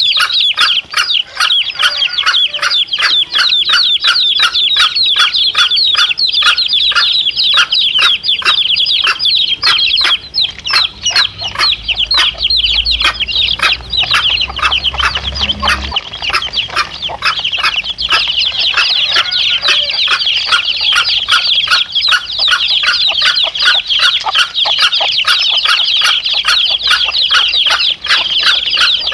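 Domestic chicks cheeping rapidly and without pause, several high peeps a second, with the mother hen clucking among them.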